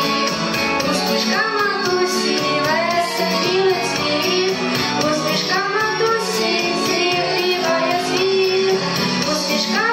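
A song sung by a child's or young female voice over instrumental accompaniment.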